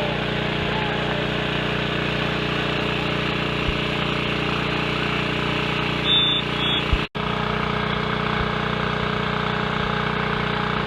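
Steady mechanical drone with several fixed pitches, like a motor or engine running without change; the sound drops out for an instant about seven seconds in.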